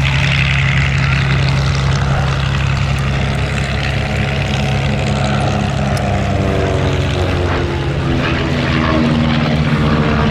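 Light propeller aircraft, de Havilland Chipmunks flying a formation display, droning overhead with their piston engines. From about five seconds in, the engine pitch falls steadily as they pass.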